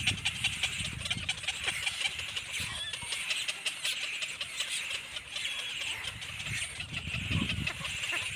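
Birds calling steadily in a dense chatter of short high calls, over a low rumble.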